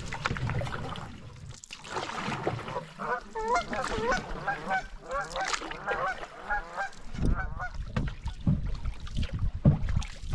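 A bird calls in a quick series of short, pitched calls, about three a second, for around four seconds in the middle. Low water and paddle noise from the canoe comes at the start and near the end.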